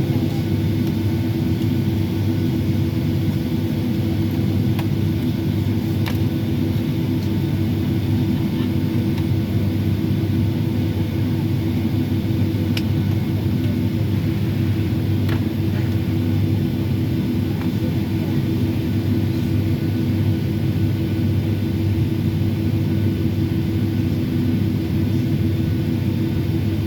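Steady cabin noise inside a Boeing 757-300 airliner: an unchanging low rumble of engines and airflow with a constant hum, and a few faint ticks.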